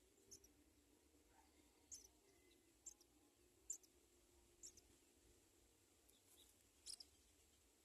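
House sparrows giving faint, short, high-pitched chirps at the nest, about six spread roughly a second apart, over a faint low hum.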